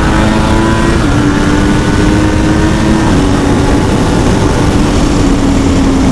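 Yamaha R1 sportbike engine with a Toce slip-on exhaust running at steady revs while riding, its pitch sagging slightly a few times, under heavy wind noise on the helmet-cam microphone.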